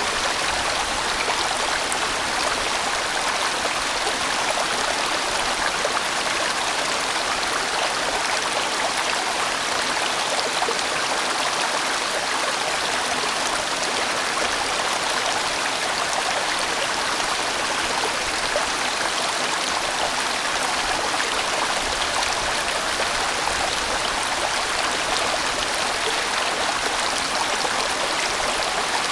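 A large mountain stream rushing and splashing over rocks, steady and unbroken.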